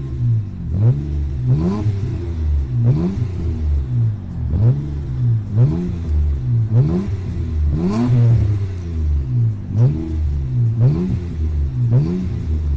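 Nissan Maxima's 3.0 V6 revved in repeated quick throttle blips, about one a second, each rising and falling back to idle, heard through a newly fitted straight-through stainless-steel rear muffler with a 102 mm tip.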